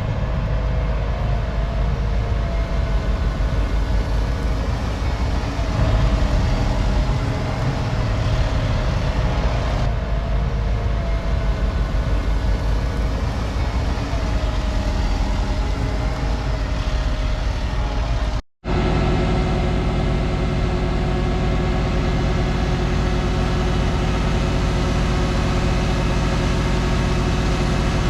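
Diesel farm machinery running steadily under load. About two-thirds of the way through, the sound cuts out for an instant and gives way to a different engine sound, steadier and with more tones in it.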